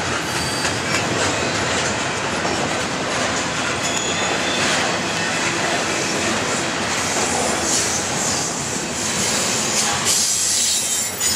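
Norfolk Southern double-stack container train's loaded well cars rolling past: a steady rumble and clatter of steel wheels on rail joints, with a thin high wheel squeal creeping in during the second half.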